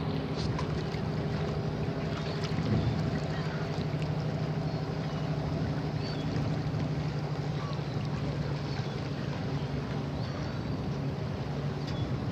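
A boat's motor running at a steady, even speed, a constant low hum, with wind and water noise over it.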